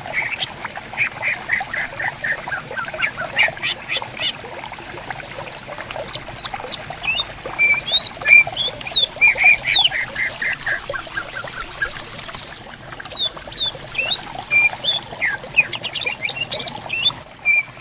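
Green leafbirds (cucak ijo) singing and calling back and forth in rapid runs of short chattering notes and quick whistled slurs, over a steady hiss of gently running stream water.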